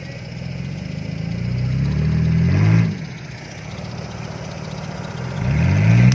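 Jeep Wrangler Rubicon engine revving under load in deep mud. The revs climb for about two seconds and drop off sharply, then climb again near the end.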